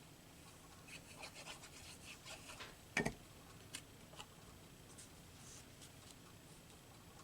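Paper rubbing and rustling as cut-out pieces are handled and pressed down onto a collage page, with one sharp tap about three seconds in and a couple of light ticks after it.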